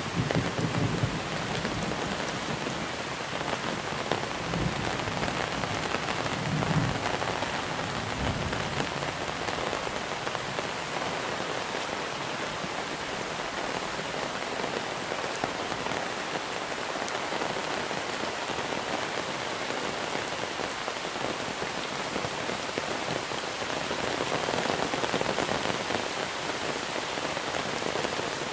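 Steady monsoon rain pouring down in an even, dense hiss. A few low rumbles of thunder die away over the first eight seconds or so.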